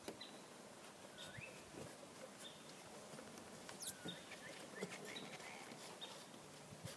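Faint calls of several small birds: short chirps and brief rising and falling whistles scattered through, over a quiet open-air background.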